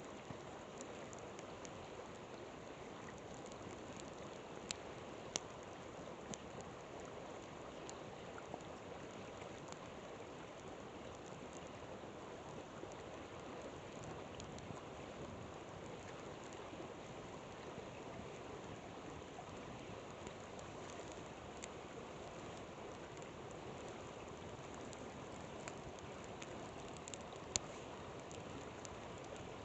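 Steady rushing of a flowing river, with occasional sharp pops and crackles from a campfire, a couple of louder pops about five seconds in and one near the end.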